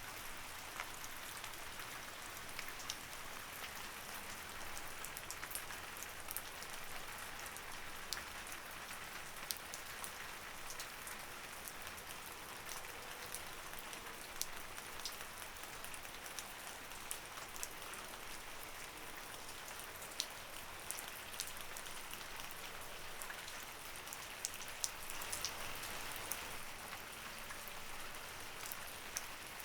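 Light rain falling steadily, a constant hiss with many small separate drop ticks.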